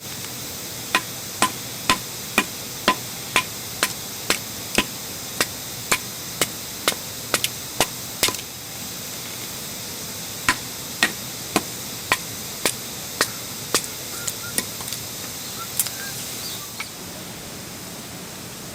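Wood being chopped for a campfire: a long run of sharp, evenly spaced chopping strikes, about two a second, then a pause and a shorter run, ending in a few lighter knocks, over a steady hiss.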